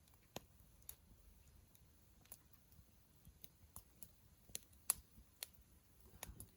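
Wood campfire crackling: irregular sharp pops and snaps, about ten in a few seconds, over a faint low background.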